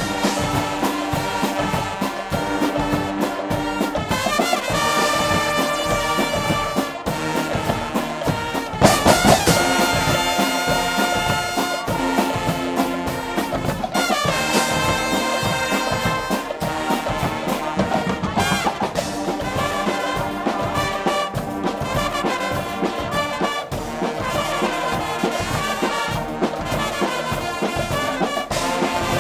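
A Guggenmusik band playing live: loud brass over a steady drum beat, with a big accented chord about nine seconds in.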